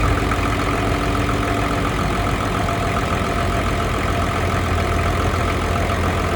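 An onboard engine on a houseboat idling steadily, a continuous low hum with a few steady tones over it.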